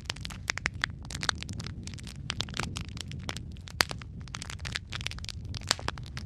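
Wood fire burning in a fireplace: dense, irregular crackling and popping of logs over a low steady rumble of flames, with one sharper pop a little before four seconds in.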